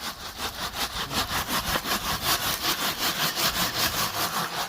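Hand saw cutting through wood with quick, even back-and-forth strokes, about four or five a second.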